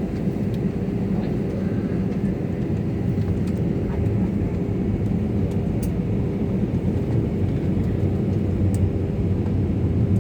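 Airplane engines running with a steady low drone and hum on the runway, before take-off.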